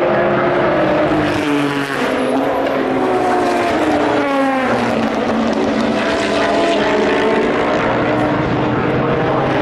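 Endurance race cars running past on the circuit, their engine notes continuous and overlapping. Two cars pass with a falling pitch, one about two seconds in and one about halfway through.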